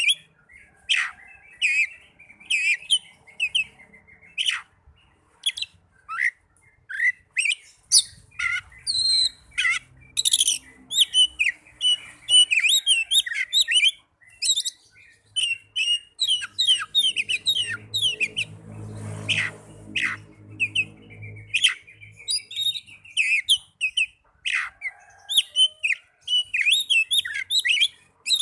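Oriental magpie-robin (kacer) singing a long, varied song of quick whistled phrases and sharp sweeping chirps, with short pauses between phrases. About two-thirds of the way through, a low hum sounds under the song for a few seconds.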